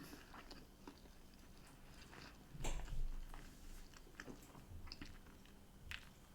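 Quiet chewing and mouth sounds of someone eating fish and chips, with a few soft clicks.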